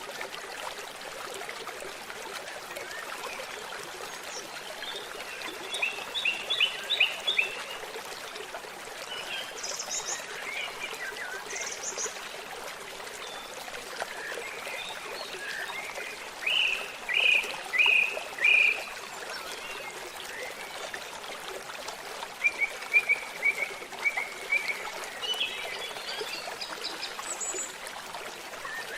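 Babbling stream running steadily, with songbirds singing three short bursts of repeated chirps over it.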